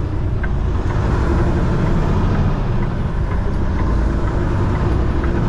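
Semi truck driving, a steady low rumble of its diesel engine and road noise heard from inside the cab.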